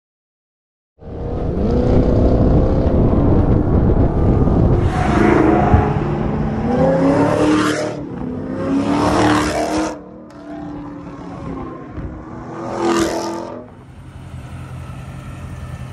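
A performance car's engine accelerating hard at highway speed, revving up in several surges a few seconds apart, with road and wind noise. It settles to a lower, steadier run near the end.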